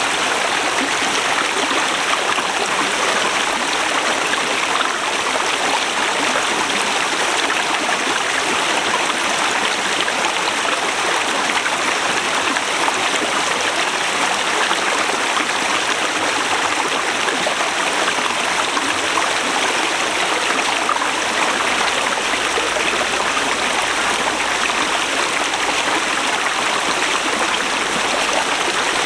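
Forest river running over rocks: a steady, even rush of flowing water.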